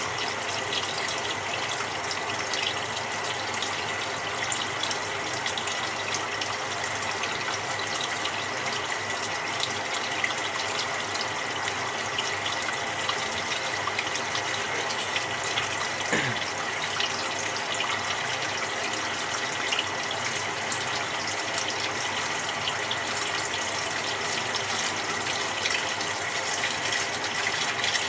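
Samsung 6.5 kg top-loading washing machine filling its tub with cold water: a steady rush of water with a faint steady whine and light ticks.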